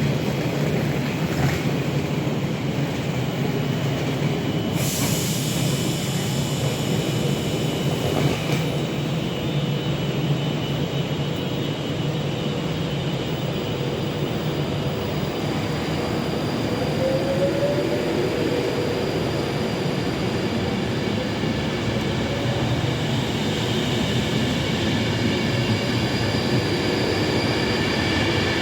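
A Class 390 Pendolino electric train pulls away along the platform with a steady rumble and high whining tones. A short rising tone comes about halfway through.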